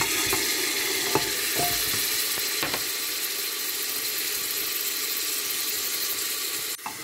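Mixed vegetables (sweetcorn, peas and beans) landing in hot oil in a pressure cooker and sizzling steadily. A few sharp clicks sound in the first three seconds. The sizzle drops off suddenly near the end.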